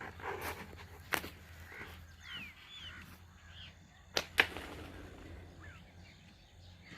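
A few short bird chirps over a quiet outdoor background, with three sharp knocks: one about a second in and two in quick succession about four seconds in.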